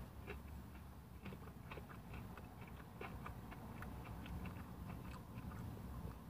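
A man chewing a bite of fried chicken tender with a crunchy cornmeal breading: faint, crisp crackles scattered through the chewing.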